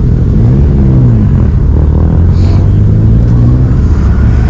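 Car engine running and revving: its pitch rises and falls about a second in, then holds steady. There is a brief hiss about halfway through.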